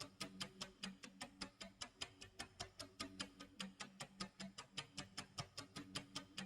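Clock tick-tock sound effect: rapid, evenly spaced ticks, about five a second.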